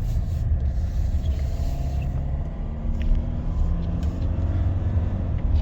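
Kia Carnival turbo diesel engine running steadily while the van drives, heard from inside the cabin over low road rumble. There is no noise from the turbo now that the intake pipe has been replaced.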